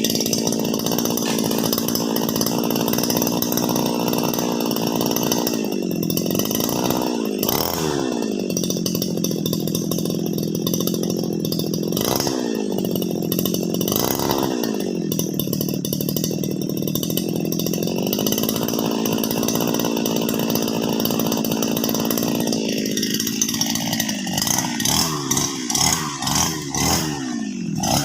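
Petrol brush cutter running hard while cutting grass, its engine note sagging and recovering several times under load. Near the end the revs drop lower and pulse unevenly as the throttle eases.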